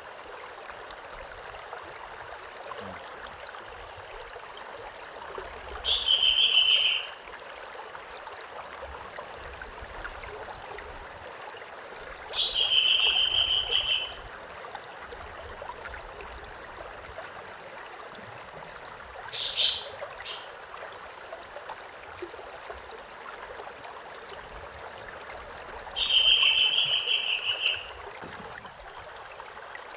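A stream running and trickling steadily. Over it a bird gives a call of about a second and a half three times, several seconds apart, with two short, sharp upward notes in between.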